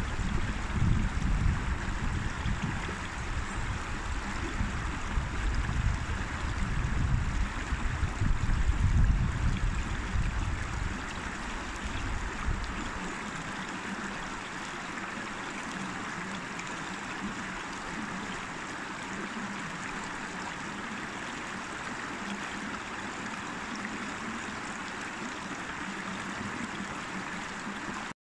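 River water rushing steadily, an even flowing noise. For the first dozen or so seconds a low rumble sits under it and then stops. The sound cuts out for an instant near the end.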